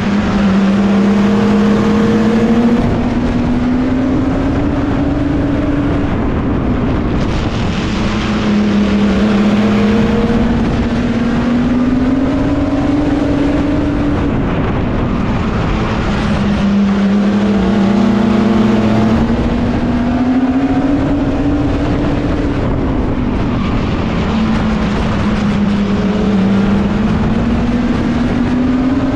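Racing mini truck's engine under load, its pitch climbing steadily for several seconds and then dropping back, about every eight seconds: accelerating down each straight and lifting for the turns, lap after lap on a short oval.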